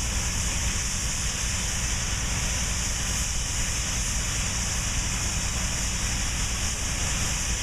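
Steam locomotive hissing steadily at rest, with a low rumble underneath and no exhaust beats.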